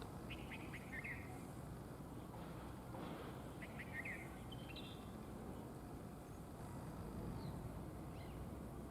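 White-browed wagtail calling: two short bursts, each a few quick ticks and then a short buzzy note, about three seconds apart, with a couple of fainter notes near the end. A steady low rumble of outdoor background noise runs underneath.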